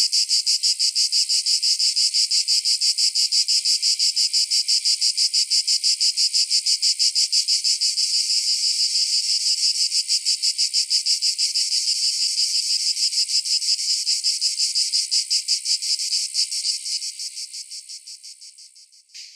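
Cicada song: a loud, high, rapidly pulsing buzz that fades away over the last few seconds.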